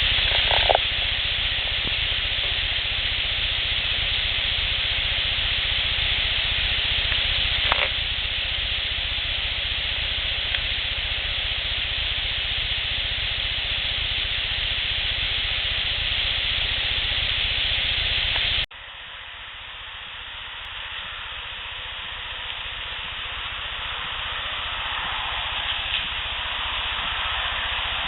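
Steady hiss of a boosted outdoor field recording, with a couple of faint, brief sounds near the start and about eight seconds in. About two-thirds of the way through the hiss cuts off abruptly as one recording is spliced to the next, which carries a quieter hiss that slowly grows louder.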